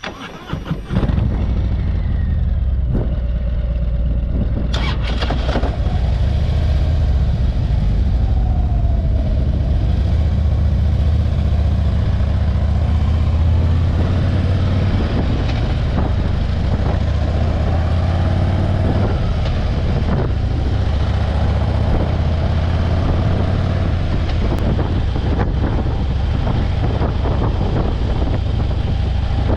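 Motorcycle running at road speed, engine and heavy wind noise on the microphone, in gusty wind. The sound jumps up about a second in and then stays loud and steady.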